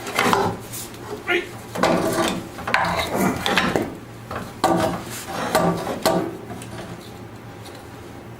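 Hand work on tractor parts: irregular scraping, rubbing and clattering of metal and tools for about six seconds, then only a steady low hum.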